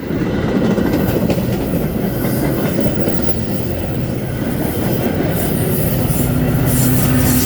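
Train passing close by, its wheels rumbling and clattering over the rails with some wheel squeal. A steady low hum joins about halfway through.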